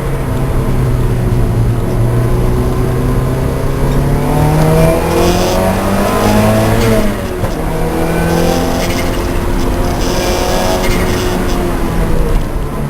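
Lancia Delta race car engine running hard, its revs climbing for a few seconds and then dropping sharply about seven seconds in before it pulls steadily again. Two brief hissing noises sit over the engine note.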